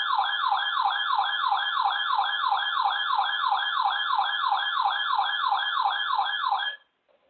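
Electronic siren-like alert tone: a fast, repeating downward sweep, about three and a half sweeps a second, that cuts off abruptly near the end.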